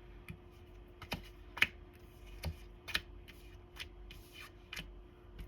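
Light, sharp clicks and taps at irregular intervals, about seven in all, over a faint steady hum.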